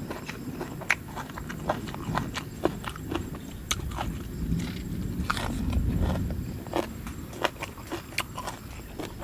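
Someone eating close to the microphone, with wet mouth smacks and clicks of chewing at an irregular pace, about one or two a second.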